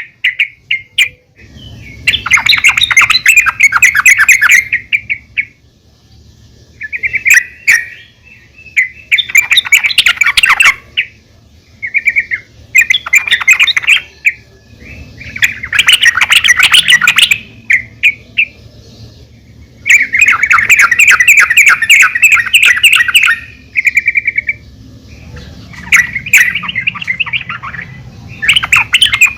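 Female yellow-vented bulbul (trucukan) calling: loud, repeated bursts of rapid chattering notes, about ten bursts of varying length with short pauses between them. It is the kind of call used to draw other bulbuls in and get them singing.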